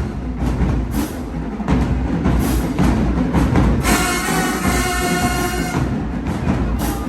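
Marching band playing: a drumline keeps up a steady beat with heavy bass drums, and the horns come in with a long held chord about four seconds in.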